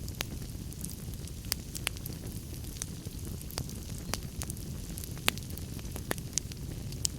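Wood fire crackling in a fireplace: sharp pops and snaps at irregular intervals over a steady low rumble.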